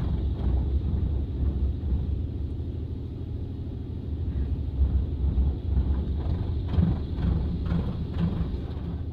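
A Coleman Hanna Water Wizard 2.0 touchless car wash spraying water onto the car, heard from inside the cabin as a steady rush over a low rumble, growing louder for a few seconds in the second half as the spray passes close.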